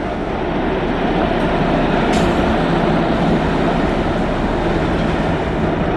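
Electric train running past on the rails: a dense, steady rumble that grows louder over the first second or so, then holds.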